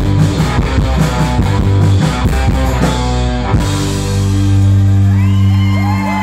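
Live indie pop band with electric guitar and drums playing the last bars of a song, then stopping on a final chord that is left ringing.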